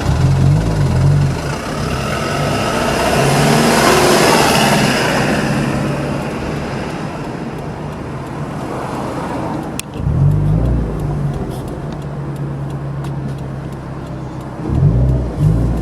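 Toyota 86 (ZN6) with its 2.0-litre flat-four running through an HKS Hiper Max aftermarket muffler. The sound swells louder around four seconds in, then drops with a sudden click near ten seconds, and the engine settles into steadier running.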